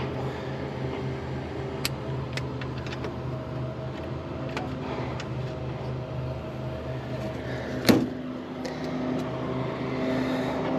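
Steady hum of running rooftop air-conditioning equipment, with scattered light clicks and one sharp knock about eight seconds in.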